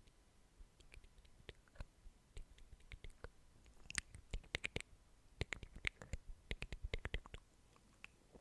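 ASMR mouth sounds: a run of soft, wet lip and tongue clicks, sparse at first and coming thick and fast from about halfway through.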